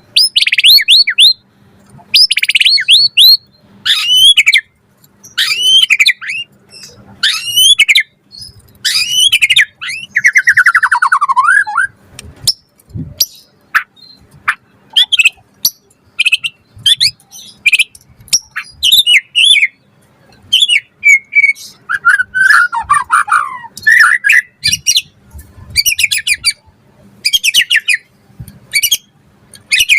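White-rumped shama (murai batu) in full, vigorous song. It sings a string of varied phrases with short gaps between them: whistled glides, fast trills, a buzzy phrase falling in pitch about ten seconds in, and quick runs of short notes near the end. This is the loud 'gacor' song packed with mimicked 'isian' phrases that keepers play to set other shamas singing.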